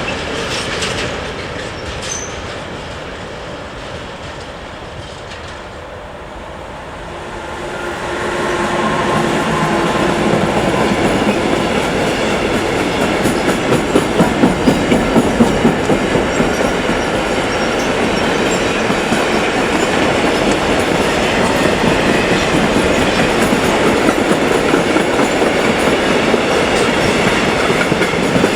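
A train passing close by on the rails: a steady rolling roar that grows from about a quarter of the way in. Its wheels clatter rhythmically over rail joints, most strongly around the middle.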